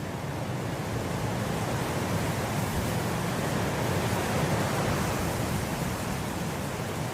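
Wind blowing steadily through grass, a rushing noise that swells gradually and eases again near the end.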